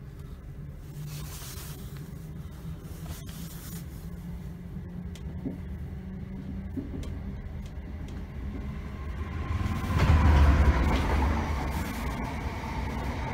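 Inside a Northern Class 321 electric multiple unit under way: a steady low rumble of the train running on the rails, with a few faint clicks. About ten seconds in, a sudden much louder rush of noise comes in, then eases off.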